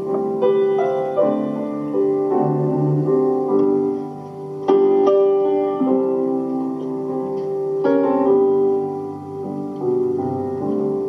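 Piano music: a slow introduction of struck chords and melody notes that ring on.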